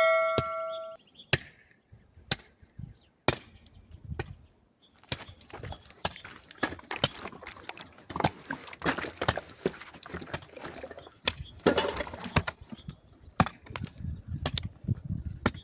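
Hand tools digging into rock: a ringing clang of a hammer strike fades out, then single sharp strikes come about once a second. About five seconds in, a dense run of knocking, scraping and clattering of stone starts and goes on to the end.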